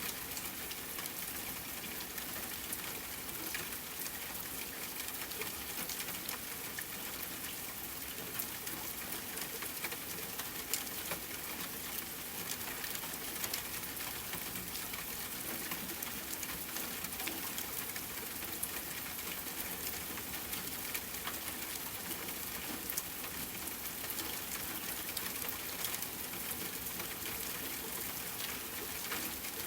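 Steady rain falling, with many small drop patters scattered through it.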